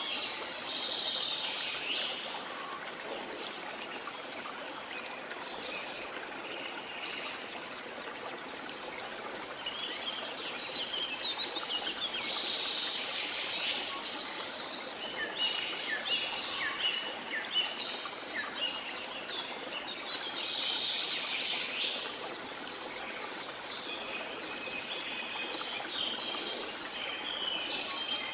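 Rainforest birds singing in recurring bursts of quick, high chirps and trills over the steady rush of a waterfall.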